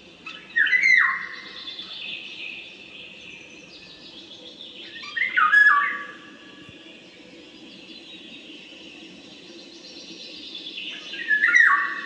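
Bird calls: three loud, short calls that fall in pitch, about five or six seconds apart, over a steady high-pitched background chorus of chirping.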